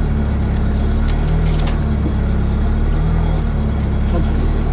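Citroën Saxo VTS rally car's four-cylinder engine idling steadily, heard from inside the cabin.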